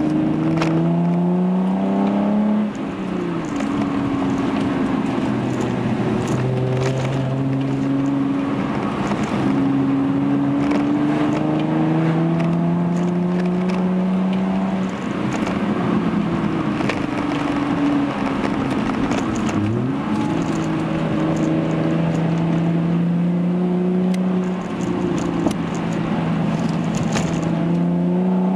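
Hyundai Genesis Coupe's 3.8-litre V6 through a Young Motors catback exhaust, heard from inside the cabin while driving. The engine note climbs under acceleration and drops at a gear change about three seconds in. It then holds fairly steady at cruise with a few slow rises and falls, and climbs again near the end.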